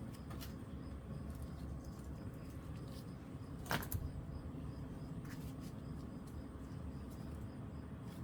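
A few light clicks and taps over a steady low background hum, the sharpest click a little under four seconds in.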